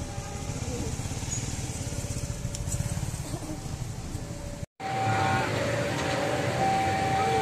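Low rumble and street noise at a railway level crossing as an electric commuter train passes, with faint crowd voices. After a sudden cut, a louder noisy background with a steady high tone sounding on and off.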